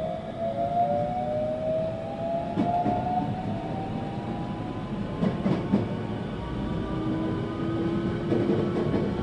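521-series electric train heard from inside the car: the traction motors' whine slowly rises in pitch as the train gathers speed, over a steady running rumble. Wheels click over rail joints a few times.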